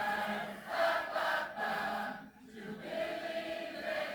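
A choir singing held chords, with a brief break a little over two seconds in.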